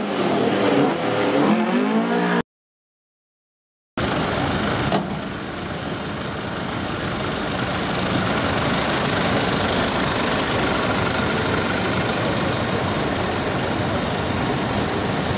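The air-cooled Volkswagen flat-four of a drag-race Beetle running hard down the strip, its pitch gliding, cut off abruptly after about two and a half seconds. After a second and a half of silence comes a steady, noisy engine rumble.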